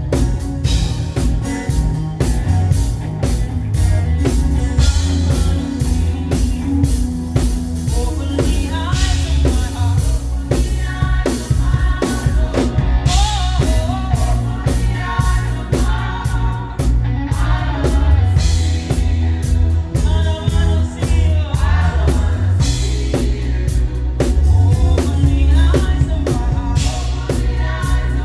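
Live gospel praise music: a drum kit played with dense, driving hits over a heavy bass line, with voices singing from about a third of the way in.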